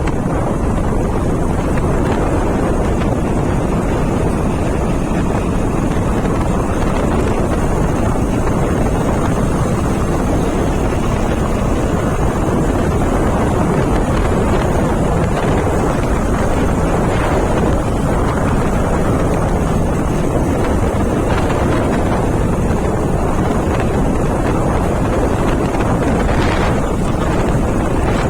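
Steady, loud wind rushing over the microphone of a moving motorbike, with no break or change.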